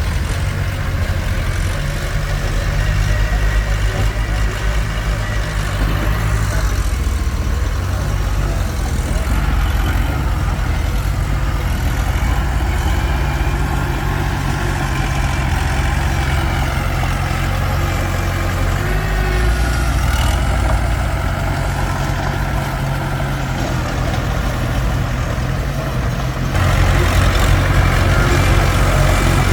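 Komatsu D21P bulldozer's diesel engine running steadily under working load, with its pitch and load shifting a few times and getting louder near the end.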